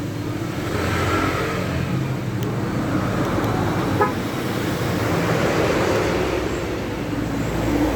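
Steady motor-vehicle running noise, with one short click and a brief high chirp about four seconds in.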